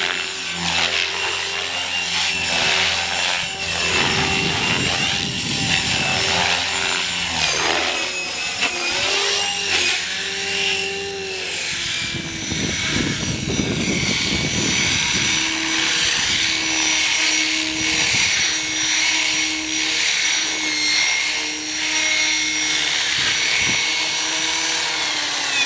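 GAUI Hurricane 425 electric radio-controlled helicopter flying, its motor and rotor whine rising and falling in pitch as the load changes. Several quick swoops in pitch about a third of the way in, then a steadier whine through the second half.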